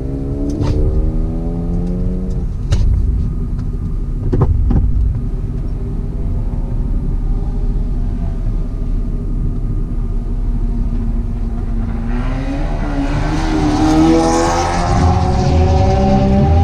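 BMW E36 3 Series engine heard from inside the cabin: a throttle blip with rising pitch at the start, then a steady engine note while the car waits, with a few short clicks in the first five seconds. About twelve seconds in the engine revs up as the car launches, its pitch climbing, with road and wind noise building.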